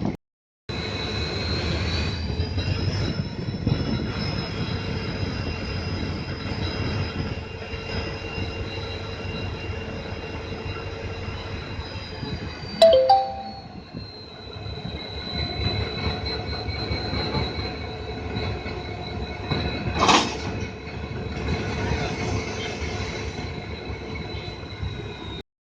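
A train running over the rails, its steel wheels squealing with a continuous high whine that rises a little in pitch and later falls back, over a steady rumble. About halfway there is a short, loud two-pitched tone, and about three-quarters through a sharp loud crack.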